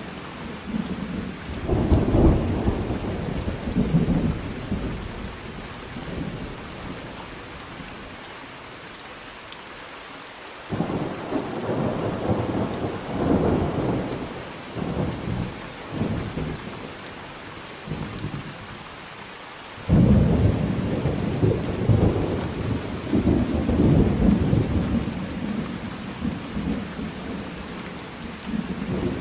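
Thunderstorm: steady rain with rolling thunder. A rumble builds a couple of seconds in and fades, a second long rumble rolls in about a third of the way through, and a sudden, louder clap comes about two-thirds of the way in and rumbles on to the end.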